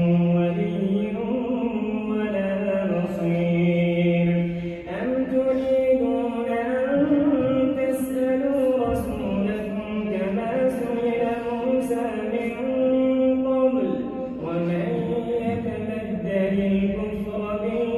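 A man reciting the Quran in Arabic in the slow, melodic tajweed style, holding long drawn-out notes that step and glide between pitches.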